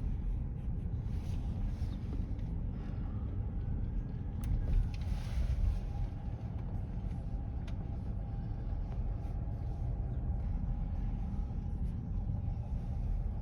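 Car interior road and engine noise while driving: a steady low rumble, with a couple of faint ticks.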